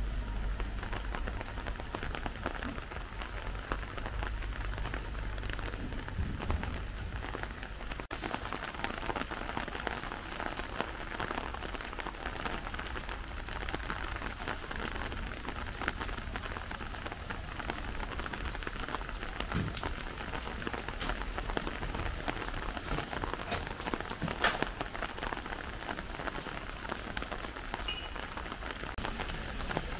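Steady rain falling, a dense hiss of many small drop hits over a low rumble.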